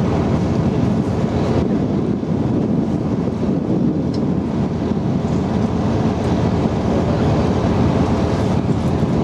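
Type 94 waterline mine-laying vehicle running steadily on the water, its engine noise mixed with water rushing past and wind buffeting the microphone.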